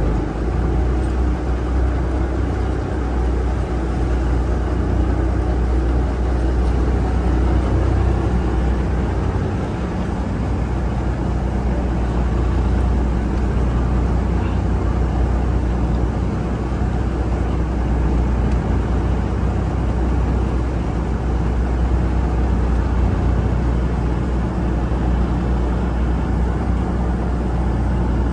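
River ferry's engine running steadily with a deep drone, under an even rushing noise.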